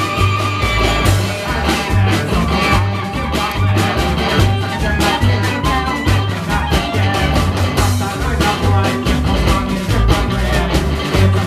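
Live band playing an up-tempo song, with a double bass sounding steady, evenly spaced low notes under drums and other instruments.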